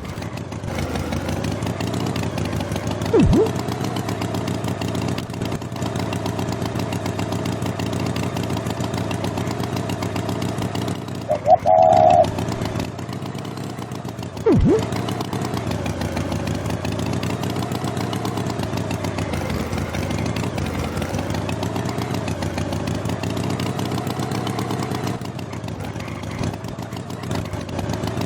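A steady engine-like drone, broken twice by a short pulsing honk and twice by a quick falling tone.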